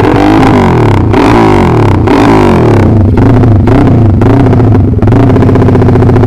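Engine fitted with a loud aftermarket "helikopter" exhaust, revved up and down several times in quick succession, with sharp cracks about once a second.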